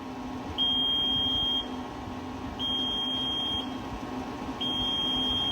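Incubator's electronic beeper sounding a high steady tone, about one second on and one second off, four times, over a low steady hum from the egg turner motor as the racks tilt.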